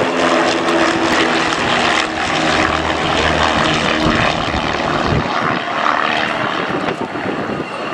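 Piston engines and propellers of two Pitts S-1D aerobatic biplanes flying in formation, a steady engine note that breaks up about halfway through.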